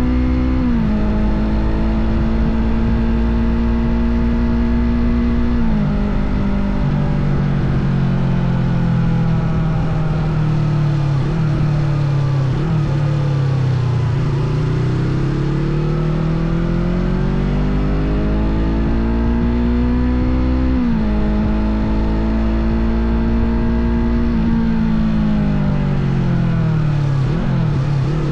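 Yamaha R25 parallel-twin motorcycle engine running hard under way. Its pitch holds steady, then drops at a gear change about six seconds in, slides down and climbs back over several seconds, jumps up again about two-thirds of the way through and falls near the end.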